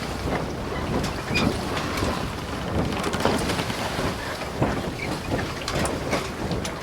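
Water rushing and splashing along a sailing yacht under way, with wind noise on the microphone.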